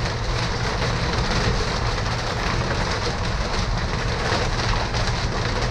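Wind-driven rain and hail falling steadily, a dense patter over a constant low rumble.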